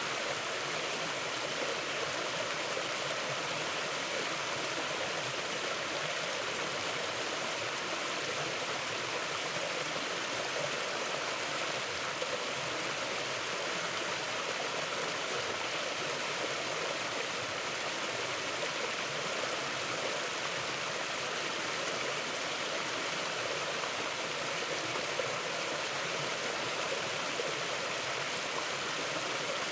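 Mountain river flowing over rocks: a steady rush of water with no breaks or changes.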